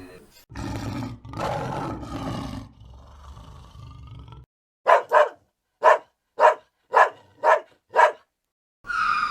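Animal calls: two long harsh roars, a fainter call, then a run of seven short calls about half a second apart, with a falling call beginning near the end.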